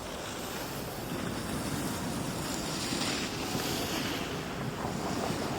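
Steady rushing noise of wind buffeting the microphone, with the hiss and scrape of sliding over snow on a ski run.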